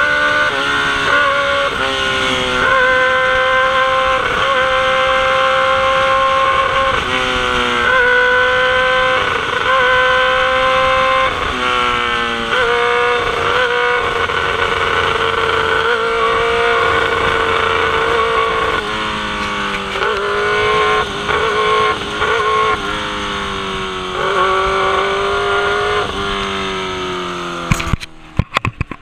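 Motorcycle engine running under load, its pitch repeatedly climbing and then dropping as it shifts through the gears, over steady wind and road rush. About a second before the end the engine note falls away abruptly, leaving a few clicks.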